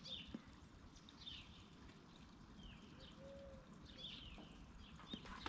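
A bird repeating a short, high chirp about once a second, faint over low outdoor background noise.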